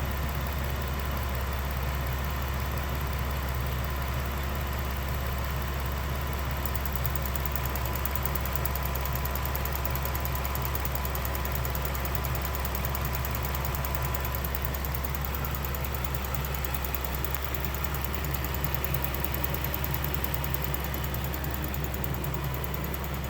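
2016 Ram 1500 engine idling steadily, joined about a quarter of the way in by a fast, even ticking/clicking that keeps going. The owner does not know its cause or whether it is normal.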